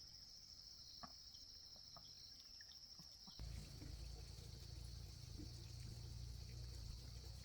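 Faint, steady high-pitched chirring of insects, with a few small ticks. About three and a half seconds in, a low rumble suddenly joins it.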